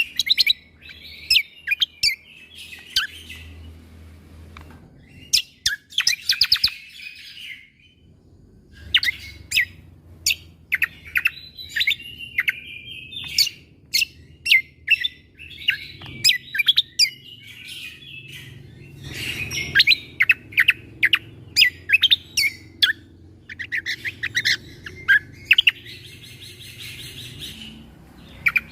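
Cucak kombo (kecial kombok) singing a rapid string of sharp, clipped 'shot' notes in bursts, with short warbling trills between them. A faint low hum runs underneath.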